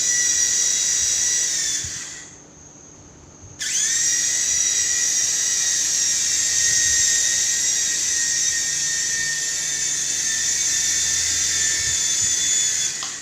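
Small electric motors of a toy RC helicopter running with a high-pitched whine. The whine dies away about two seconds in, spins back up a second and a half later, and runs steadily until it winds down at the very end.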